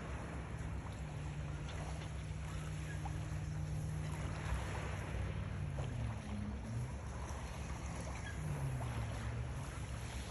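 A motorboat's engine running steadily, its pitch dipping and recovering twice, over a steady hiss of wind and sea.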